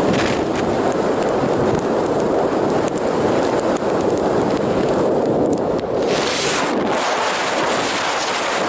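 Gale-force mountain wind buffeting the microphone: a loud, steady rush with a sharper, hissier gust about six seconds in.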